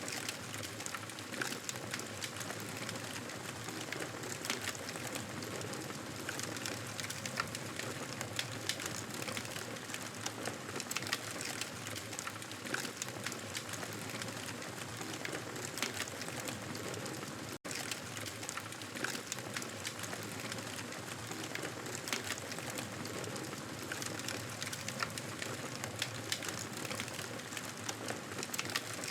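Wood fire in a fireplace crackling steadily: a soft continuous hiss with many small, irregular pops and snaps. The sound cuts out for an instant a little past halfway, then carries on unchanged.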